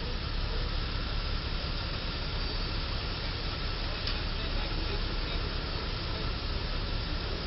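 Steady road traffic noise, a low rumble under an even hiss, with a faint click about four seconds in.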